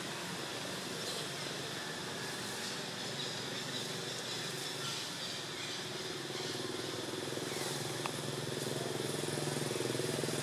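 A motor engine running steadily with a low hum, growing louder over the last few seconds.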